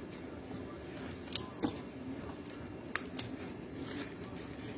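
A sealed trading-card hobby box being opened by hand: a few sharp clicks and snips, the crispest about a second and a half in and again about three seconds in, over a low steady hum.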